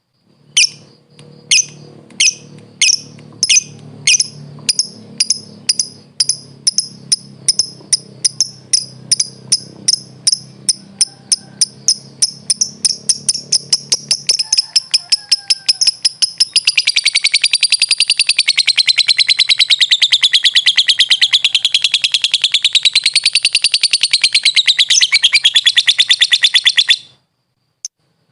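Lovebird calling: sharp high chirps that start about two a second and speed up, then about 16 seconds in run together into a long unbroken rapid chatter (ngekek) that wavers in pitch and stops about a second before the end. A faint low hum lies under the first half.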